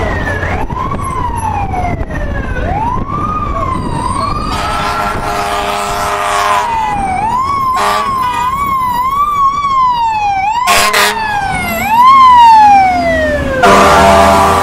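FDNY fire truck's electronic siren sweeping up and down in a slow wail, then switching to a faster yelp, with air-horn blasts cutting in: one long blast, two short ones and another near the end. A low rising tone joins about twelve seconds in, where it is loudest.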